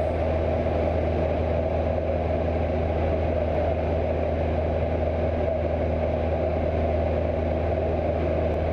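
Cessna 172 light aircraft's piston engine and propeller running steadily, a constant low drone.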